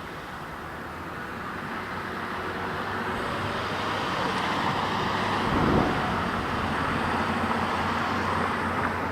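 Road traffic: a vehicle passing on the street, its noise building up and loudest about six seconds in, then holding steady.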